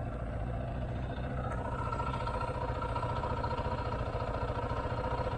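Motorcycle engine running steadily while riding, with an even low pulsing and a steady higher tone that comes in about a second and a half in.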